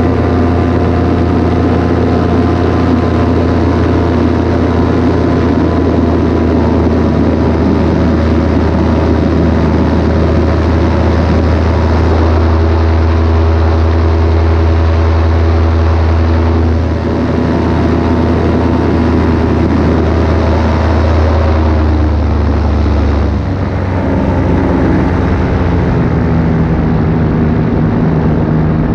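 Paramotor engine and propeller running steadily in flight, loud and continuous; the engine note changes twice in the second half.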